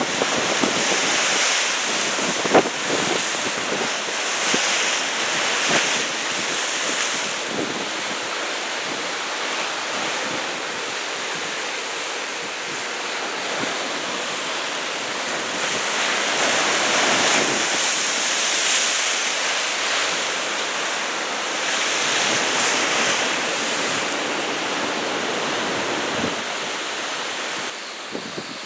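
Big typhoon-driven ocean surf, waves of about 2 m breaking. It is a steady wash of hiss that surges louder several times as waves crash, with some wind on the microphone.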